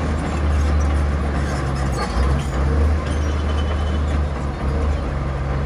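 Bulldozer's diesel engine running with a deep, steady drone that swells and dips a few times.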